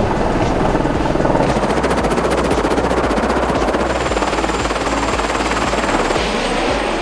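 Airbus H130 helicopter running close by, its rotor beating in a fast, steady chop over the rush of the engine.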